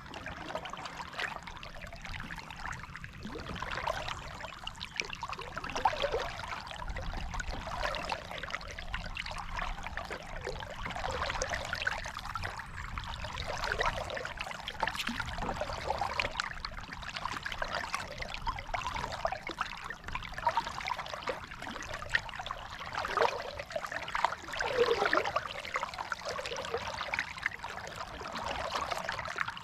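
Water trickling and splashing around a kayak, rising in brief surges every few seconds.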